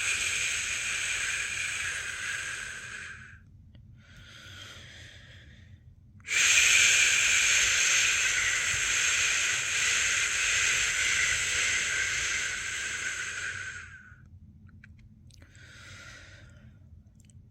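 A person's voice making a long, steady 'shhh' shushing sound to lull a newborn to sleep, breaking off to breathe in before the next long 'shhh'. Each shush lasts several seconds, with a short, quieter in-breath between them.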